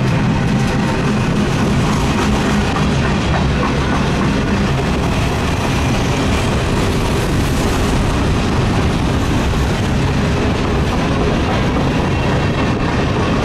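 Freight train's boxcars and covered hoppers rolling past close by: steel wheels running on the rails in a steady, loud rumble that holds unchanged.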